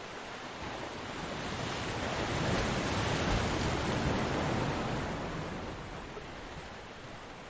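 Ocean surf: a wave swells from about a second in, is loudest around the middle as it breaks and washes in, then eases back to a steady hiss.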